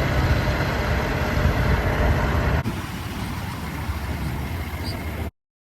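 Boat motor running steadily with a low hum under wind and water noise. The level drops a little about two and a half seconds in, and the sound cuts off abruptly near the end.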